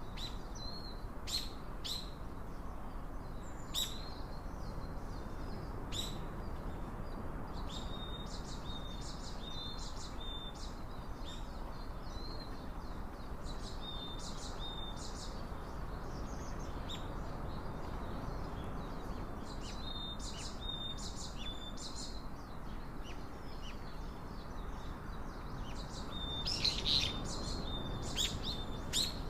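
Small birds chirping: short, high calls coming in clusters every few seconds, busiest near the end, over a steady low background hiss.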